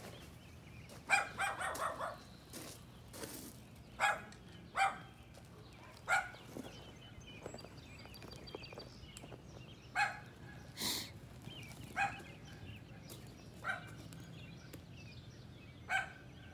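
Short animal calls: a quick run of several about a second in, then single calls every two seconds or so, over a faint steady low hum.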